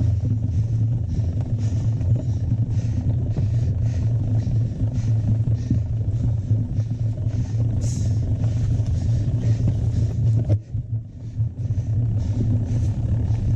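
Steady low rumble of mountain-bike riding noise on the camera microphone, with a faint hiss pulsing about three times a second; it drops away briefly about ten and a half seconds in.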